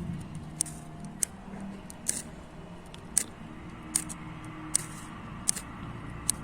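A flint striker scraped repeatedly to throw sparks onto campfire tinder: about eight sharp, hissing rasps, roughly one a second, and the fire does not catch.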